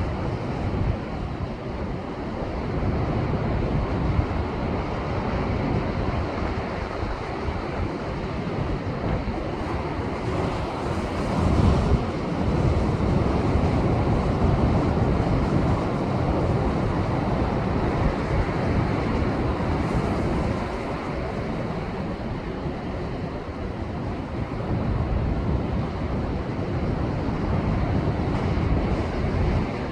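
Rough surf, a heavy post-typhoon swell, breaking and washing over shoreline rocks in a continuous rushing roar that swells and ebbs. A heavier wave crashes in with a deep rumble a little over a third of the way through. Wind rumbles on the microphone throughout.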